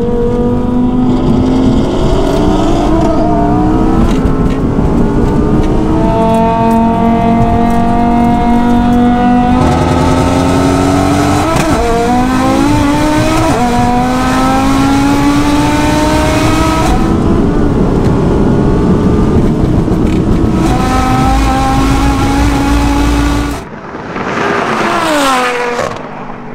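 Turbocharged Audi race car engine holding a steady rolling speed, then at full throttle from about ten seconds in, pitch climbing in each gear and dropping at each upshift, heard from inside the car. Near the end a car passes close by, its engine note falling quickly in pitch.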